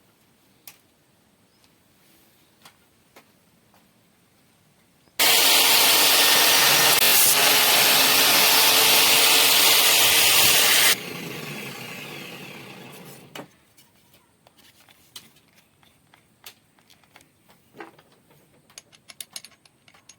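Electric drill running at full speed for about six seconds, spinning a piece of wood to shave it round into a peg, with a loud harsh scraping. It cuts off sharply and the motor winds down over two or three seconds. Light clicks and taps come before and after.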